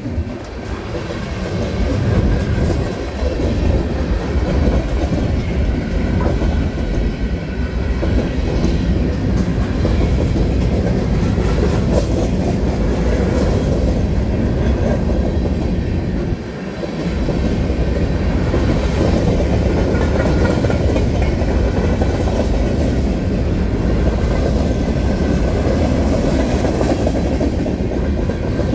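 Freight cars of a manifest train rolling past close by: steel wheels rumbling steadily and clicking over the rails. The noise dips briefly just after the start and again about sixteen seconds in.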